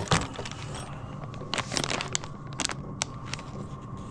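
Plastic packaging being handled and unwrapped, with scattered crinkles and small clicks over a low steady hum.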